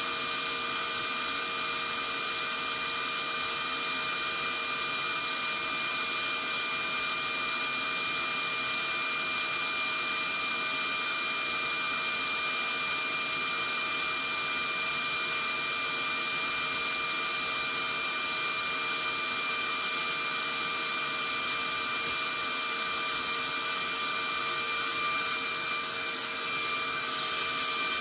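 Vacuum cleaner running steadily: an even rushing noise with a constant whine held at one pitch, unchanging throughout.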